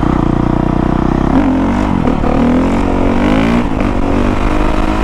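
Honda CRF450R's single-cylinder four-stroke engine running, then revved up and down several times from about a second and a half in before settling again.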